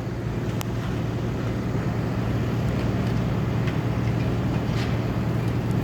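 A motor vehicle engine idling steadily, a low, even hum that doesn't change.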